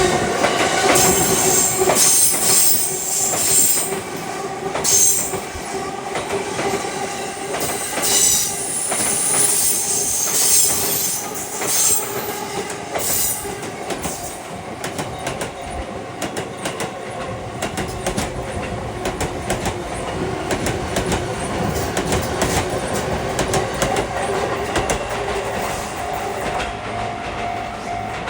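Electric commuter trains passing on the Sotetsu line: wheels clatter over rail joints and squeal shrilly through the first half, then run more quietly. A level crossing alarm rings steadily throughout.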